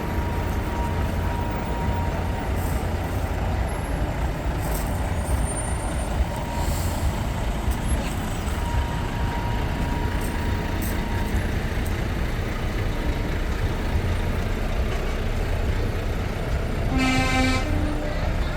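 Heavy trucks' diesel engines running in a steady low rumble as they pass, with one truck air horn sounding for about a second near the end.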